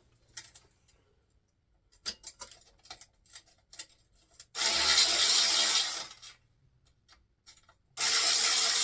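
Power ratchet running in two short bursts of about a second and a half each, spinning out fasteners on a small-block Chevy 350 during teardown, after a few light clicks of tools being handled.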